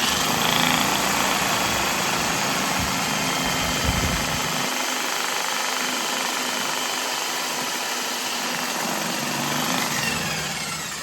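Corded electric drill spinning a Husky drum-auger drain snake attachment, running steadily at full speed, then released near the end and winding down with falling pitch.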